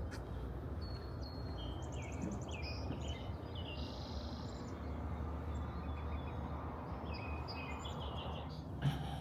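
Wild birds chirping and calling, including a quick trill and a buzzy call, over a steady low background rumble, with a single knock near the end.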